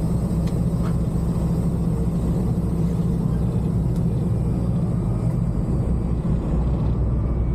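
A motor vehicle on the move, with a steady low engine hum under even road noise.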